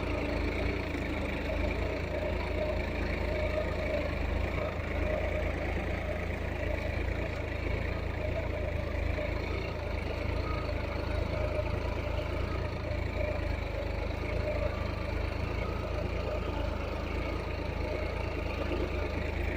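Solis tractor's diesel engine running steadily.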